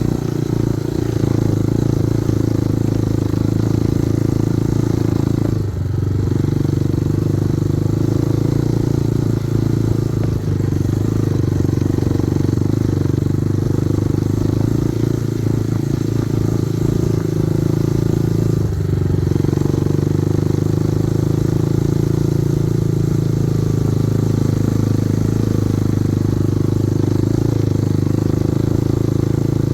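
Kovi Advance 250 motorcycle engine running at a steady speed while riding, with a few short knocks and rattles.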